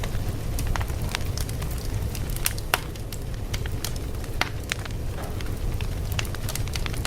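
Fire crackling: a steady low rumble of burning with irregular sharp pops and snaps, several a second.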